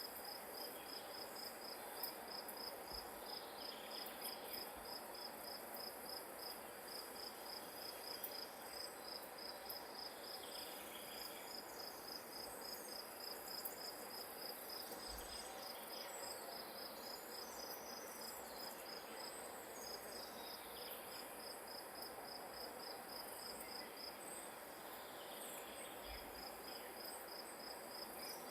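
A field cricket chirping steadily at a high pitch, about three chirps a second, breaking off briefly twice, over a steady outdoor hiss.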